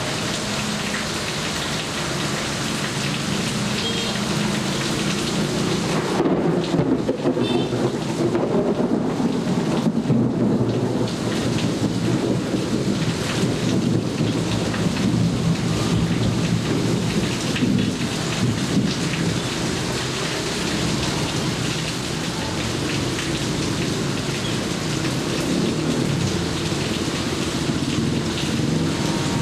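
Steady rain falling, with a rumble of thunder swelling about six seconds in and rolling on for several seconds before fading back into the rain.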